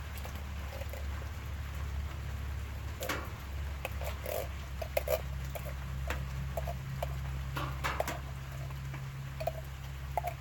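Campfire cooking in the rain: scattered sharp crackles and pops with many short, high squeaks, over a steady low hum.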